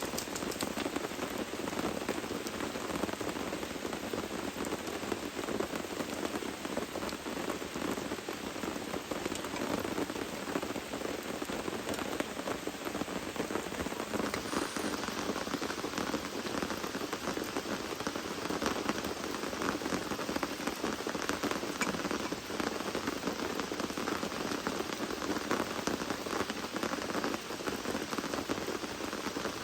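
Steady rain falling, with many separate drops striking close by over a constant hiss of rainfall.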